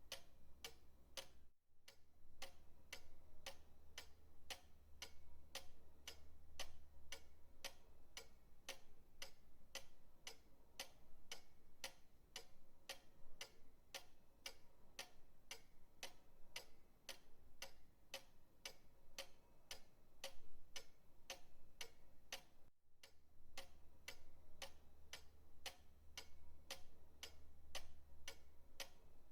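Pendulum clock ticking steadily, about two ticks a second, with two very brief dropouts: one just after the start and one about 23 seconds in.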